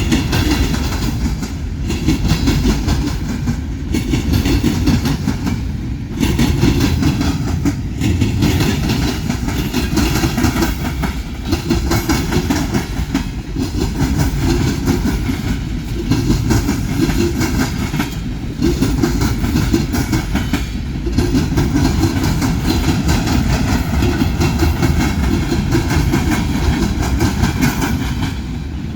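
Freight train cars rolling past: a steady loud rumble of wheels on rail, with clatter over the rail joints and a brief dip in the sound every two to three seconds as each car goes by.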